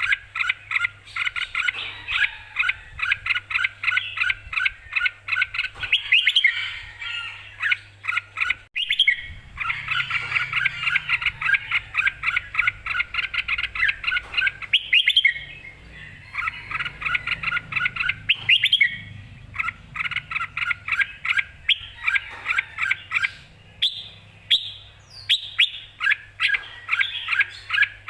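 Red-whiskered bulbul calling in fast runs of short, repeated bright notes, several seconds at a time with brief breaks.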